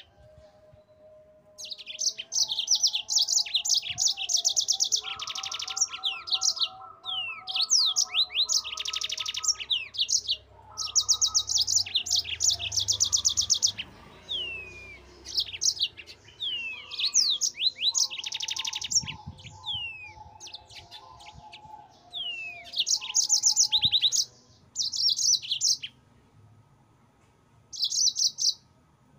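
Yellow-fronted canary (Mozambique canary) singing in bursts of rapid high trills and quick down-slurred whistles, phrase after phrase with short pauses between. Fainter, lower-pitched warbling notes run underneath, and the song drops out for a couple of seconds near the end.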